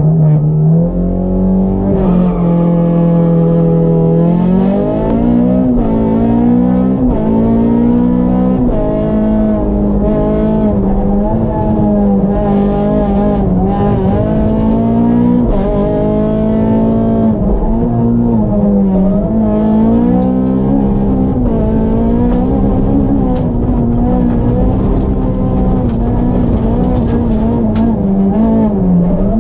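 Honda Civic rally car's four-cylinder engine heard from inside the cabin, driven hard. Its note holds steady for the first few seconds, then climbs sharply through the revs and drops back again and again as the car accelerates off the start and shifts through the gears at stage speed.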